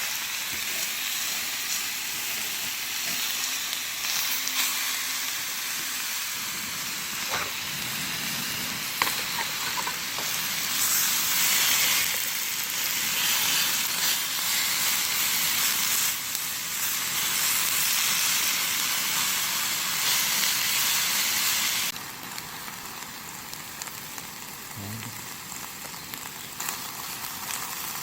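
A steady, even hiss like food sizzling in a pan or rain on a surface, with a few faint clicks. The hiss changes abruptly and drops in level about 22 seconds in.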